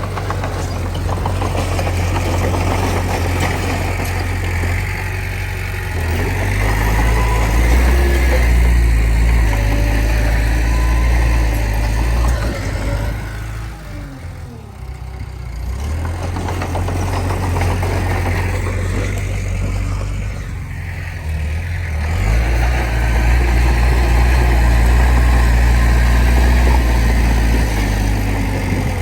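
Small crawler bulldozer's diesel engine working steadily. It swells under heavier load about six seconds in and again past twenty seconds, easing in between.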